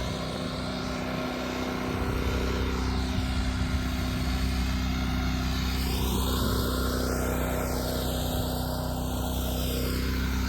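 Portable generator engine running steadily.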